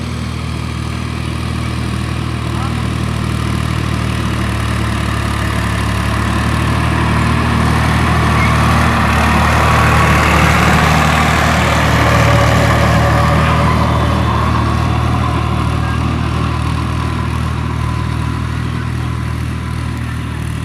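Power tiller engine running steadily. A broader rushing noise swells over it in the middle and fades again.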